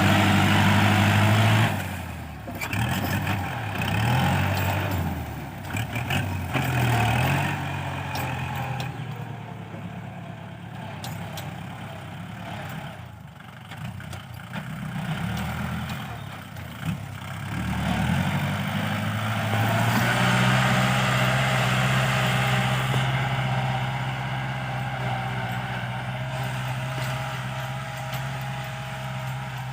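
Kubota L5018 tractor's diesel engine working in a field, loud for the first couple of seconds, then its pitch falling and rising several times as the load and throttle change. For roughly the last ten seconds it runs at a steady pitch.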